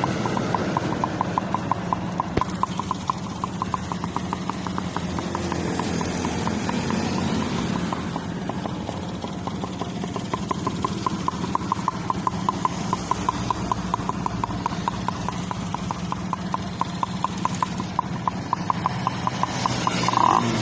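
Yamaha RS 100's single-cylinder two-stroke engine idling steadily, with a fast, even ticking over its low hum.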